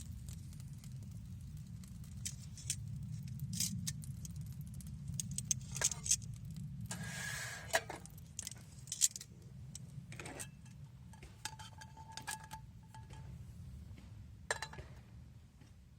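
Light metal clinks and scrapes of a utensil against metal camp cookware, coming as a string of irregular clicks with a brief ringing tone about two-thirds of the way through, over a low steady rumble.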